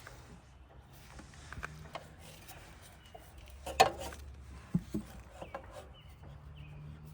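Scattered light clicks and knocks, with one sharper knock about four seconds in and two more just after, over a faint steady low hum.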